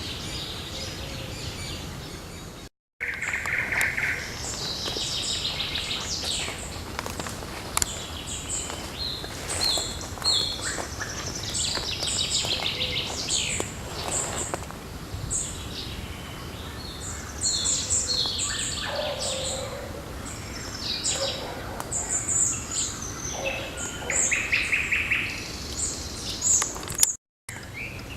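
Several songbirds singing and chirping together in a morning chorus, with overlapping short phrases and trills. The sound cuts out completely twice for a fraction of a second.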